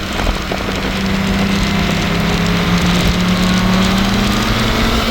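Turbocharged 2.0-litre four-cylinder car engine under hard acceleration, heard from inside the cabin. Its note climbs slowly and steadily over heavy road and wind noise.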